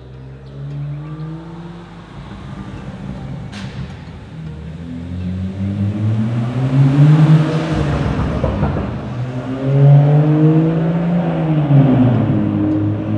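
2017 BMW M2 M Performance Edition's turbocharged inline-six, through its M Performance exhaust, pulling hard several times as the car drives through a concrete parking garage. The engine note rises and falls in pitch with each pull and is loudest as the car passes, about halfway through and again a few seconds later.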